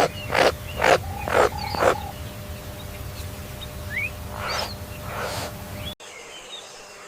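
Rhythmic calls from a large animal, about two a second, which stop about two seconds in; two softer calls follow a couple of seconds later, with faint short bird-like chirps behind. About six seconds in, the sound cuts abruptly to quieter background.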